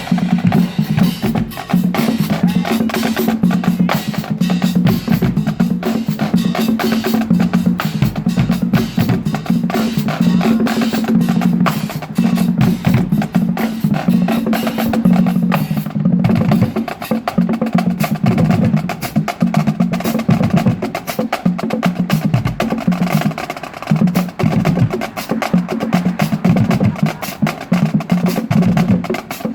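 Marching band playing, driven by its drumline: rapid snare drum strikes and rolls over bass drum and a low pitched line.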